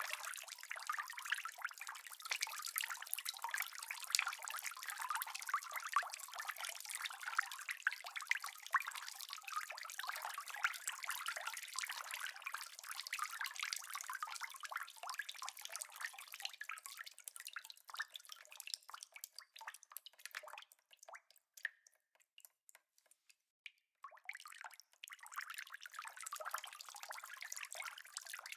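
Rain falling as a dense shower of drips, thinning to scattered drops about two-thirds of the way through, almost stopping for a moment, then filling back in near the end.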